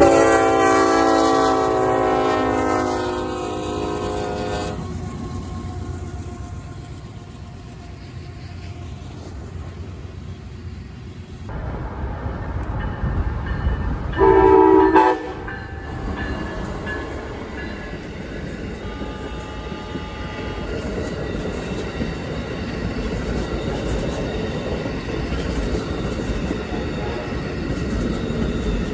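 A diesel locomotive horn sounds a sustained chord for several seconds and is cut off. Later comes one short horn blast, then an Amtrak passenger train rolls through a grade crossing with a steady rumble and clatter of wheels on rail.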